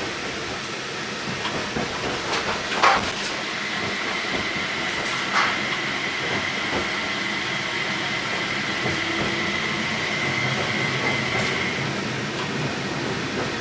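Tram running on its rails, heard from inside the car: a steady rolling rumble with two sharp clacks from the track, about three and five seconds in. A steady high whine sets in about four seconds in and fades near the end.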